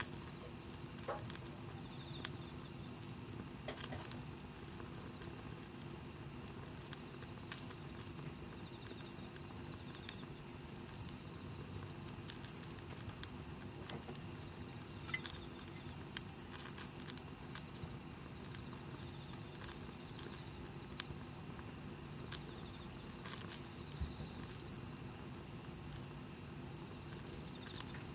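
Wood campfire burning, crackling with scattered small pops and snaps.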